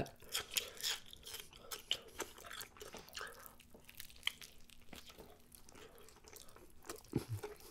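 Mouth sounds of a man biting into and chewing a messy breakfast burger on a toasted everything bagel: many short clicks, thickest in the first couple of seconds and thinning out after.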